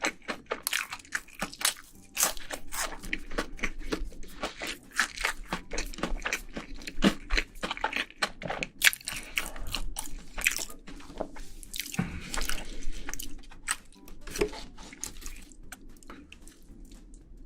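Close-miked chewing and biting of crunchy food: many crisp crackles in quick succession, growing sparser and quieter near the end.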